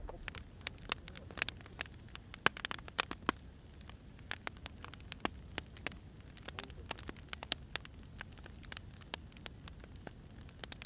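Wood fire crackling: irregular sharp pops and snaps from burning firewood over a low, steady rumble.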